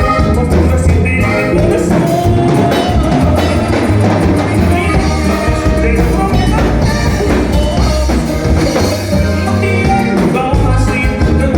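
Recorded band music from a Mexican conjunto song: steady bass line and drum kit with other instruments.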